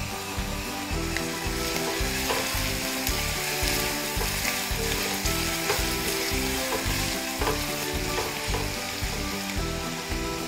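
Dried sprats sizzling steadily in hot coconut oil in a non-stick pan, stirred now and then with a spatula, which adds occasional light scrapes and clicks. Background music with a steady beat plays underneath.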